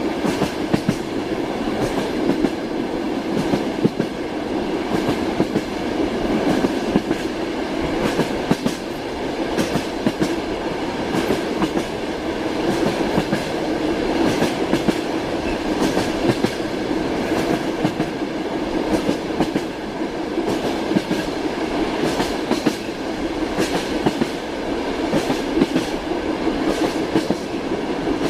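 Train running steadily, its wheels clacking over rail joints again and again over a continuous rumble.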